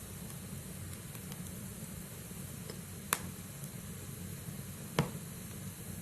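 Log fire burning in a fireplace: a steady low rumble of flames with faint crackles, and two sharp pops from the burning wood, about three seconds in and near the end.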